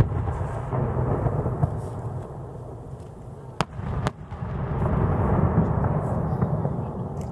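Aerial firework shells bursting. A sharp bang comes as it opens, two more come about three and a half and four seconds in, and each is followed by a long, low rolling rumble.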